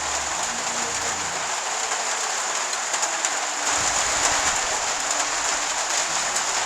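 Steady heavy rain falling on a roof, with a low rumble of thunder coming in about four seconds in and fading after a couple of seconds.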